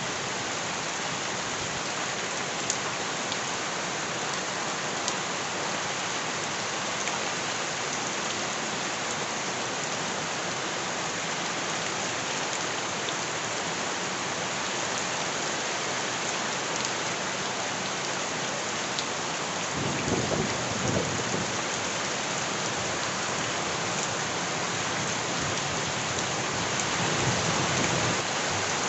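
Steady rain falling on surfaces, an even hiss with scattered sharp drop ticks. A louder low swell comes about two-thirds of the way through and another near the end.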